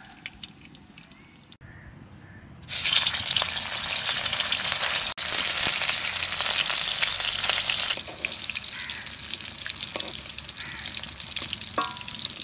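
Boiled chital fish dumplings (muitha) sizzling as they are lightly fried in a little white oil in a hot kadai. The sizzle is faint at first, turns loud suddenly about three seconds in, and eases slightly a few seconds later.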